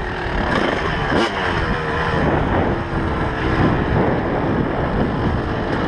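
2004 Kawasaki KX250 two-stroke dirt bike engine running under riding load, its pitch rising and falling repeatedly as the throttle is opened and closed, with wind noise on the microphone.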